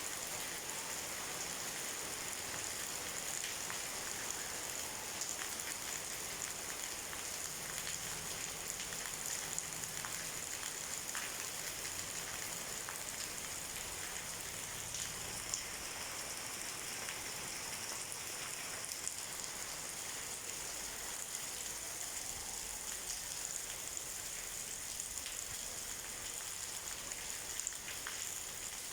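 Steady rain falling, a constant hiss with scattered individual drop taps.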